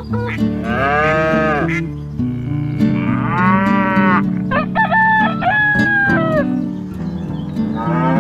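Two long cow moos, each rising and falling in pitch, over steady background music. They are followed by a higher call that moves in steps.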